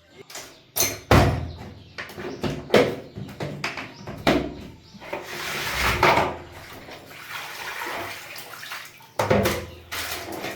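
Water splashing and sloshing in irregular bursts, with the loudest surges about a second in and again near the end.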